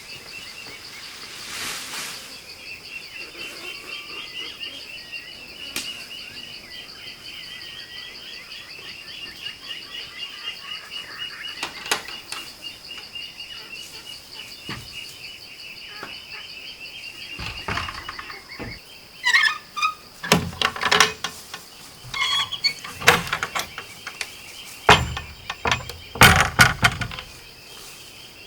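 Steady high-pitched insect buzzing with a wavering chirping line above it. In the last third a run of sharp knocks and clatters comes in and is the loudest sound.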